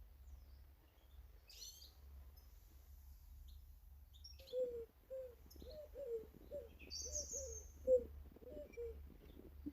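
Garden birds calling: a few brief high chirps, then from about halfway a run of about a dozen short, low, falling notes at two or three a second.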